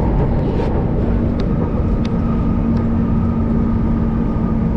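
Manila MRT Line 3 train running: a steady low rumble with a steady hum, and a higher whine that joins about a second and a half in, with a few faint clicks.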